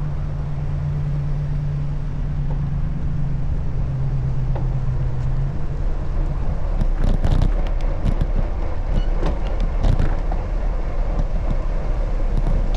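Road traffic heard from a moving bicycle, over steady wind and road rumble. A vehicle engine's low steady hum fades out about halfway through, and a run of short clicks and rattles follows.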